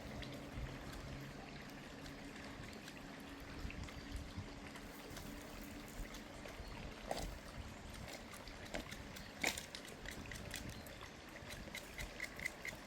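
Water trickling, with scattered clicks and, near the end, a quick run of short high ticks.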